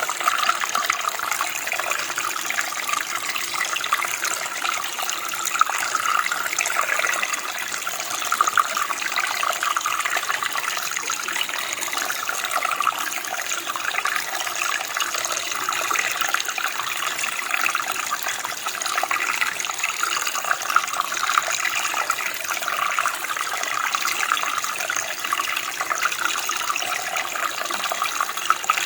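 Running water from a small stream or creek: a steady bubbling flow with a constant, busy splash.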